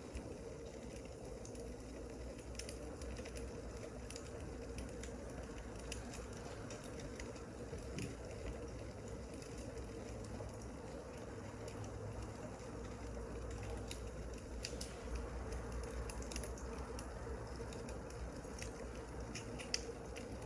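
Wood fire crackling: a steady low rush with scattered small pops and snaps, a few sharper ones near the end.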